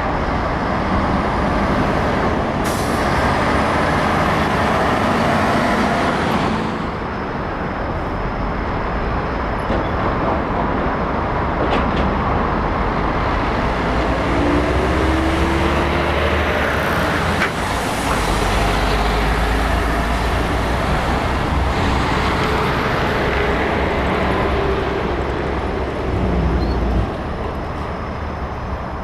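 Heavy diesel trucks running and pulling past, with one engine rising in pitch as it accelerates near the middle. A hiss of compressed air from air brakes sounds a few seconds in.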